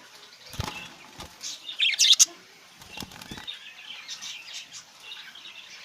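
Budgies chirping, with a short burst of wing flapping about two seconds in.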